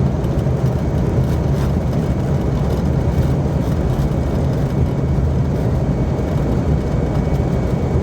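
Cockpit noise of an Airbus A320-family airliner rolling out on the runway just after touchdown, its thrust reversers deployed: a loud, steady, deep rumble of engine and runway noise.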